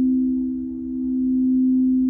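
Crystal singing bowls sounding a sustained pure low tone with a second close tone just above it, the loudness slowly swelling and dipping.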